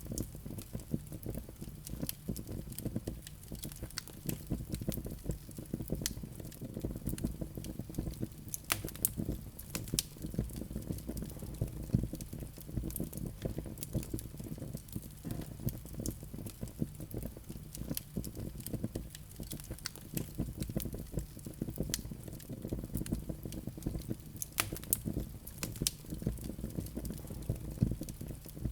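Wood fire burning in a fireplace, with a steady low rumble of flame under a constant run of irregular sharp crackles and pops.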